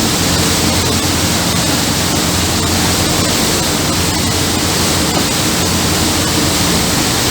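Steady loud rush of wind and water with a low engine hum underneath, as heard on the deck of a fast river passenger boat under way.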